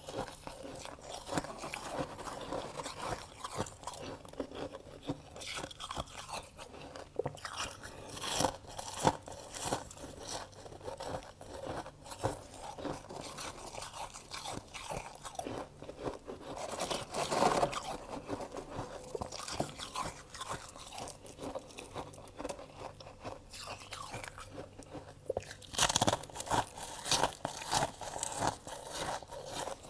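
Person biting and chewing freezer frost: a continuous run of crisp, crackling crunches, with louder bursts of biting several times.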